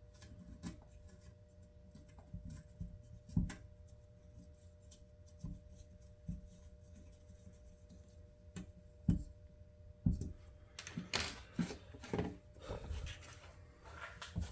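Small clicks and knocks of screws and metal parts being handled on a workbench, then a denser stretch of rubbing and scraping about three-quarters of the way through.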